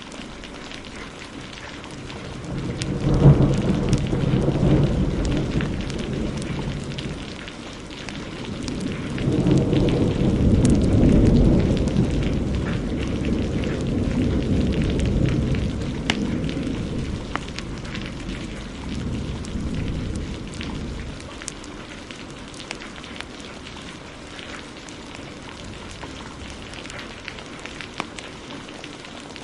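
Heavy rain falling steadily, with thunder: a sudden clap about three seconds in that rumbles on, then a longer rolling peal from about nine seconds that dies away by about twenty seconds. Scattered small crackles of a wood fire run through it.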